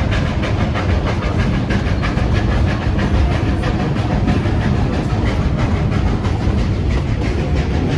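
Passenger train rolling along the rails, heard from aboard a car: a steady rumble with the wheels clicking over rail joints.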